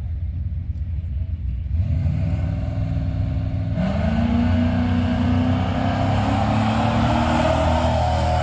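A 451 cubic-inch big-block Mopar V8 in a 1978 Dodge D200 pickup rumbling at the line, then revving up sharply about four seconds in and holding high revs as the truck launches down the drag strip.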